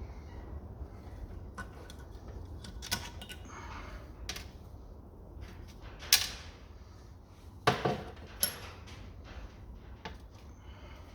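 Valve spring compressor and valve parts on a Ford Pinto OHC cylinder head being worked by hand: scattered metal clicks and clanks, the loudest about six seconds in and two more around eight seconds, over a steady low hum.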